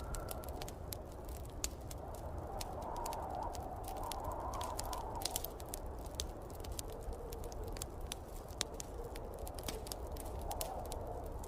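Wood fire crackling in a fireplace with irregular sharp pops, over a low rumble and the rising and falling howl of snowstorm wind.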